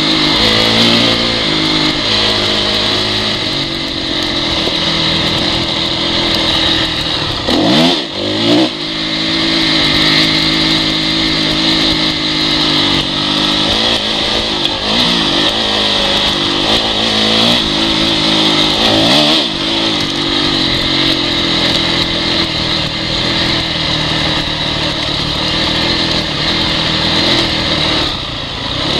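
Honda CRF four-stroke dirt bike engine running at low revs, with quick throttle blips where the revs shoot up and drop back, once about eight seconds in and twice more later.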